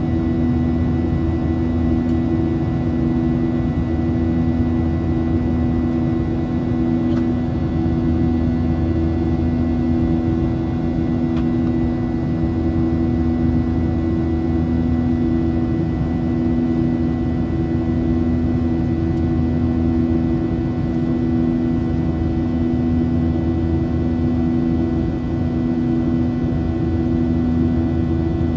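Boeing 737 cabin noise heard from a window seat: the engines' steady hum, with two strong, unchanging tones over a rush of air noise.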